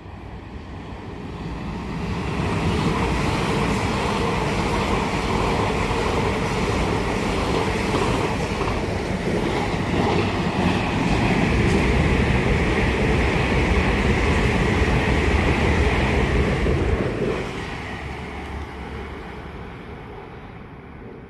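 A train passing on the main line: its noise builds over the first couple of seconds, runs steady and loud for about fifteen seconds, then drops off sharply and fades away as it goes.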